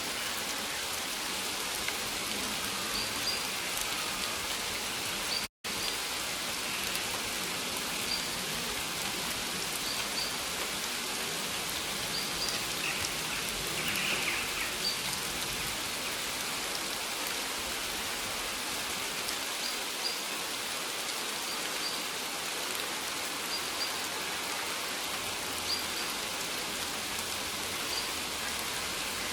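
Steady rain falling, an even hiss of many drops. It cuts out completely for a split second about five seconds in.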